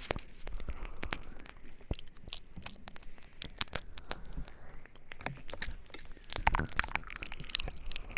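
Close-miked ASMR mouth sounds: a rapid, irregular run of wet mouth clicks and smacks, thicker about six and a half seconds in.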